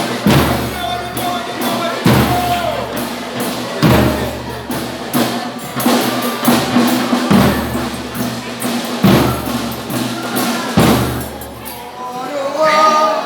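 Folia de Reis band playing: a deep drum struck in a slow, steady beat about once every two seconds over the other instruments. Voices come in near the end.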